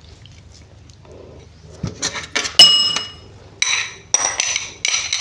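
A spoon clinking against dishes, about six sharp strikes after a quiet start, the loudest about two and a half seconds in, several leaving a short ringing tone: the spoon scraping and tapping as the seafood dipping sauce is ladled over the fish roe.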